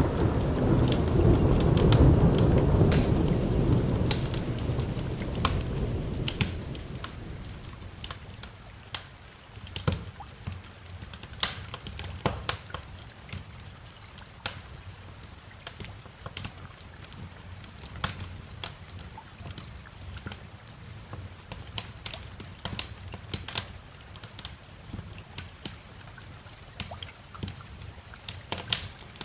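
A roll of thunder rumbles, loudest about two seconds in, and fades away over the next few seconds. Throughout, a wood fire crackles with sharp irregular pops over a light hiss of rain.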